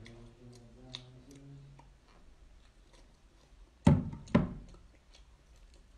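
Eating sounds: faint clicks of someone chewing crab and a brief muffled hum of voice through the full mouth. About four seconds in there are two loud thumps, close together.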